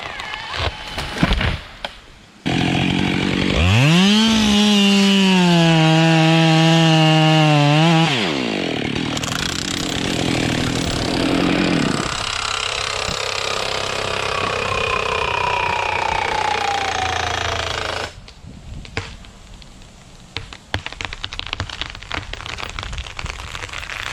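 Chainsaw revving sharply up to full speed, held high for about four seconds, then dropping away into a rougher stretch of cutting noise that stops abruptly. Scattered sharp cracks and crackling come before and after.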